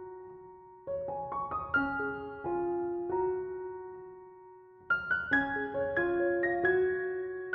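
Background piano music: gentle arpeggiated phrases, with a long held note fading out before a new phrase starts near the end.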